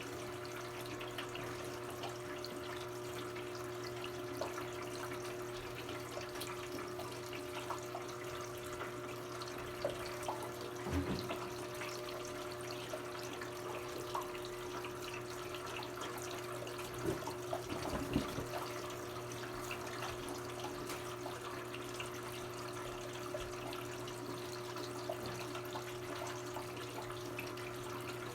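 Brastemp 17 kg top-load washing machine filling its tub: water running in steadily through the inlet valve with a constant hum. A few light knocks come about 11 seconds in and again around 17–18 seconds.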